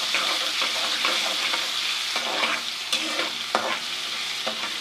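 Onion and ginger-garlic paste sizzling steadily in hot ghee in a karahi, with a spoon scraping and clicking against the pan as it is stirred, a few sharper scrapes around the middle.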